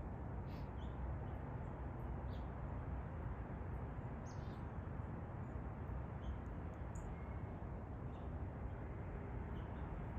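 Steady outdoor background noise with a few faint, brief bird chirps scattered through it, one a short falling note about four seconds in.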